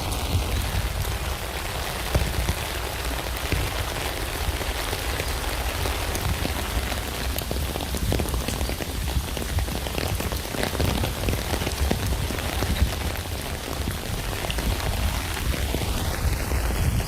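Rain falling on a tent: a dense, steady patter of countless drops over a low rumble.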